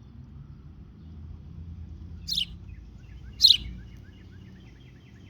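A bird chirping: two short, high chirps about a second apart, with a few faint softer chirps after them.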